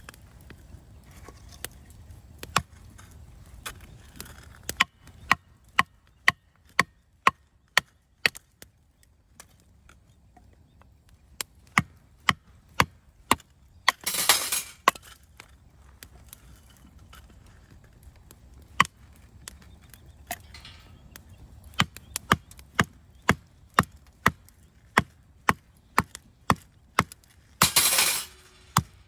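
A knife chopping on a cutting board, most likely cutting carrots: runs of sharp, even knocks about two a second, with short pauses between runs. Twice a brief burst of noise, about a second long, breaks in.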